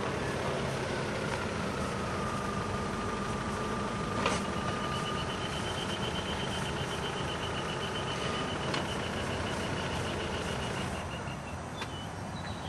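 Vehicle engine running steadily, with a steady whine and, from about four seconds in until near the end, a rapid high-pitched beeping. A couple of sharp clicks sound, one about four seconds in and one near nine seconds.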